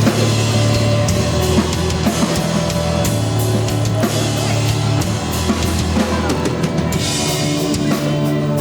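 Live rock band playing loud and steady: a drum kit with bass drum and cymbals drives over a sustained bass line.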